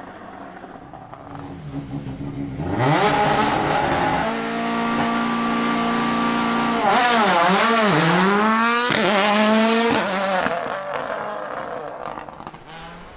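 A World Rally Car's turbocharged four-cylinder engine passing at speed. The engine note rises as it approaches and holds high revs, then dips and climbs several times in quick succession from gear changes and throttle work, and fades away near the end.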